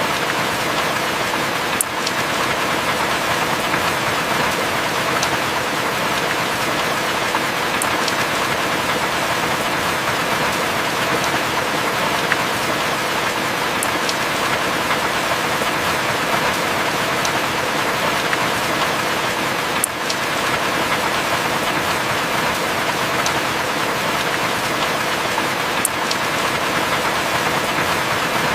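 Heavy rain falling steadily, a dense even hiss, with a faint sharp tick every six seconds or so. No thunder is heard.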